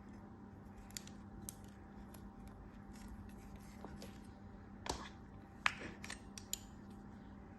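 Faint, crisp clicking and scraping of a blade cutting through a soft crumbly material, with a few sharper clicks about five and six seconds in, over a steady low hum.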